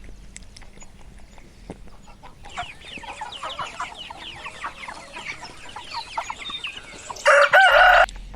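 Chickens clucking in a rapid chatter of short calls, then one loud, drawn-out call lasting under a second near the end.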